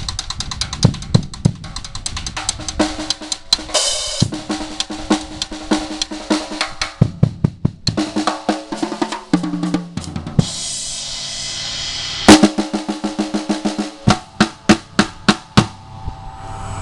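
Five-piece Sound Percussion drum kit played solo: fast snare and bass drum strikes, a fill stepping down across the toms, and cymbal crashes. The playing stops about a second before the end.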